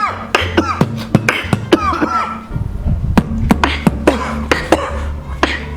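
Human beatboxing: a fast run of sharp mouth-made drum hits, with short swooping vocal sweeps in the first two seconds and a deep hummed bass held under the hits from about halfway through.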